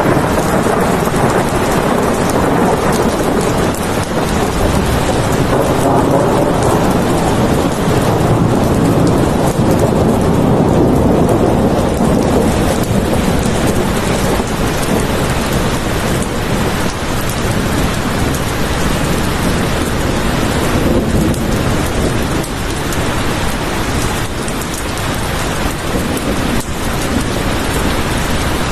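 Steady heavy rain, with a low rolling rumble of thunder that swells and fades in the first half.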